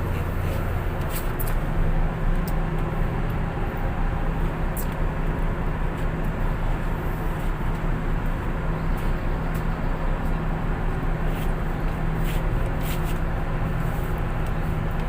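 Steady low drone of a tugboat's diesel engines running at a constant pace, with a few faint short ticks.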